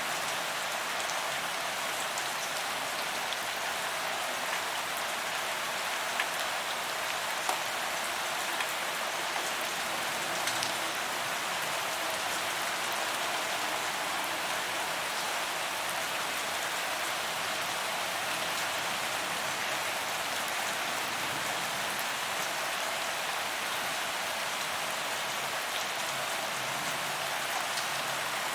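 Steady rain falling on pavement, an even hiss of drops with occasional faint sharper drip ticks.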